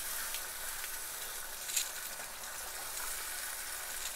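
Taro curry sizzling in a nonstick wok while a wooden spoon stirs it, with light scrapes and one sharper tick a little under two seconds in.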